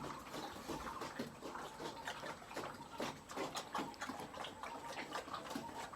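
About 20-day-old piglets eating, chewing and smacking their food in a busy, irregular run of small wet clicks and smacks.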